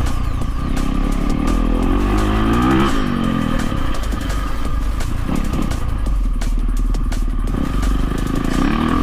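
Dirt bike engine revving up and easing off as it is ridden, its pitch climbing and dropping several times, with clattering over the top.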